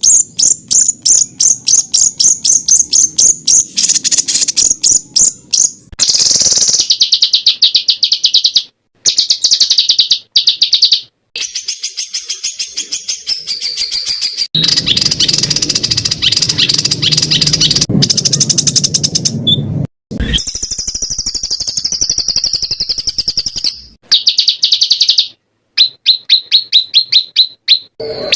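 Recorded songbirds singing: fast runs of sharp, high repeated chirps and trills, one bird's phrase after another, with several sudden cuts where one recording breaks off and another begins.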